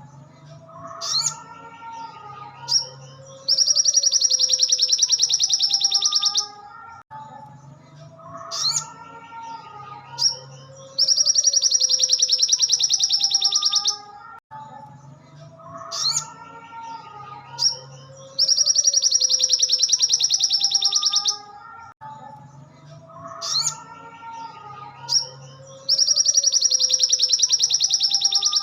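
Recorded song of a sogon (sogok ontong) sunbird, played on a loop as training song for captive birds. A few sharp, high rising chirps lead into a loud, very fast rattling trill lasting about three seconds. The phrase repeats about every seven and a half seconds, four times over.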